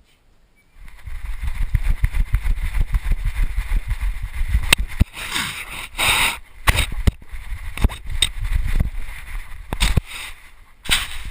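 Rumbling, knocking and rubbing on a dog-mounted action camera's microphone as the dog moves about, with a few louder scuffs and bursts.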